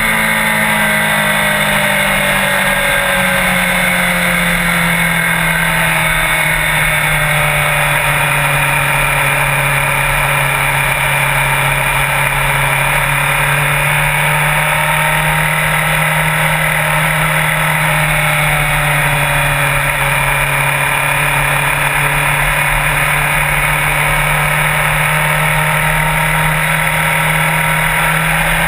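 Sport motorcycle engine running at a steady cruise. Its pitch eases down over the first few seconds, then holds level.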